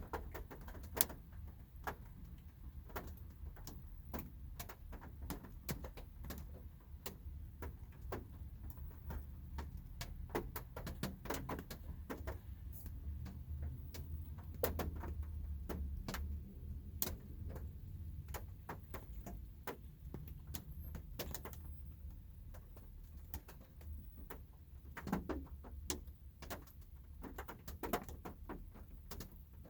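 Light rain heard from inside a car: scattered raindrops tapping irregularly on the car, over a steady low rumble.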